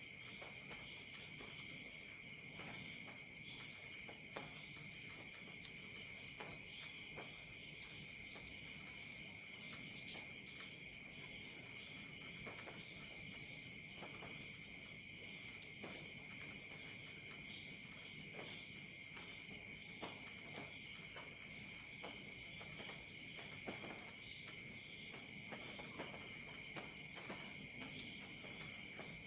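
Crickets and other night insects trilling steadily in layers, with a high chirp pulsing about once a second and a lower chirp every few seconds. Faint scattered crackles of a campfire underneath.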